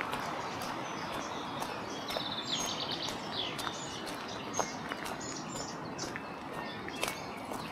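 Birds singing, with a quick trill about two seconds in and short chirps, over a steady rushing background, with scattered light clicks and crunches.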